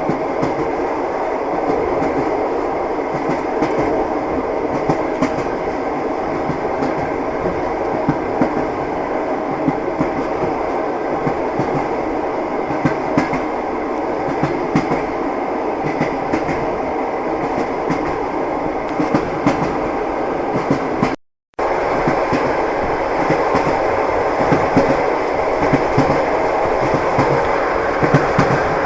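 Moving passenger train heard from inside the carriage: a steady running rumble with the clickety-clack of the wheels over rail joints. The sound cuts out for a split second about three-quarters of the way through, then resumes.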